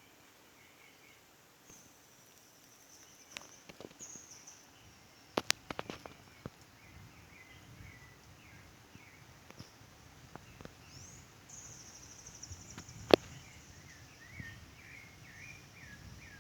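Outdoor ambience of birds chirping in short, wavering phrases, with a thin high-pitched tone at times and a few sharp clicks, the loudest about five and a half and thirteen seconds in.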